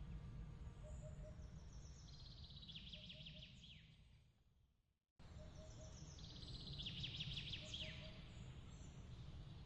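Ambience track of birds chirping in quick high trills over a steady low rumble, fading out about halfway through and cutting back in abruptly as the recording loops.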